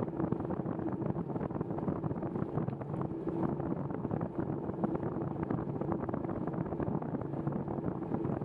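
Bicycle riding noise: wind rushing over the microphone and tyres hissing on the wet trail, with a steady hum underneath.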